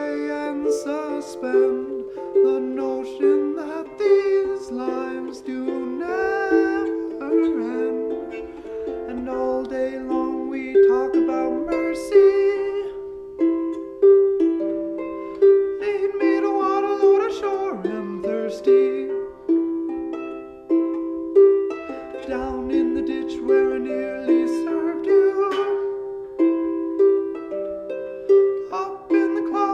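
Live acoustic music: a plucked string instrument picking a continuous run of notes, each struck and then ringing out, in a small room.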